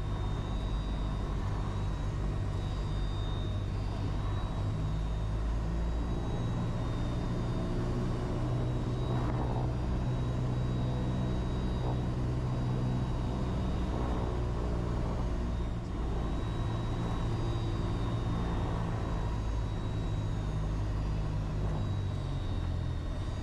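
Cessna 172's piston engine and propeller running steadily at reduced power on a landing approach, a constant low drone.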